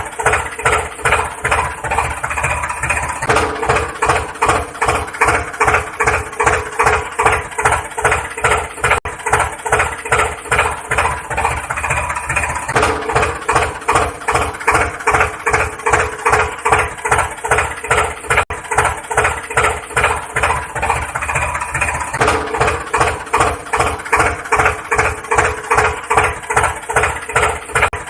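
Tractor engine idling with a slow, steady, even chug. The same stretch of sound repeats about every nine and a half seconds, like a looped recording.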